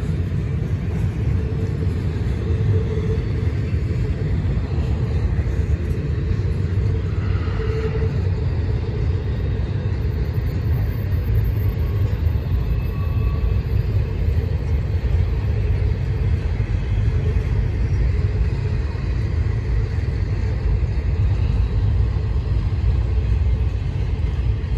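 Empty intermodal well cars of a freight train rolling past, making a steady low rumble of wheels on rail.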